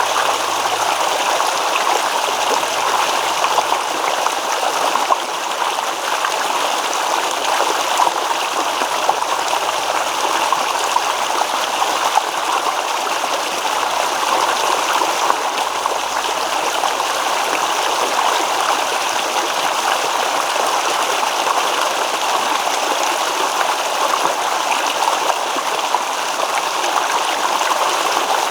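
Shallow stream babbling and rippling over stones, steady and continuous.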